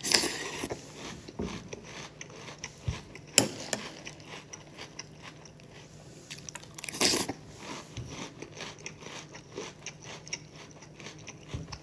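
Close-up chewing and crunching of a mouthful of breakfast cereal: a steady run of small crunches, with louder crunches near the start, about three and a half seconds in, and about seven seconds in.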